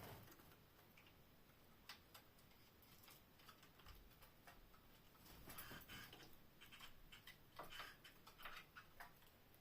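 Canaries in a cage making faint, irregular small clicks and taps, busiest about halfway through and again near the end.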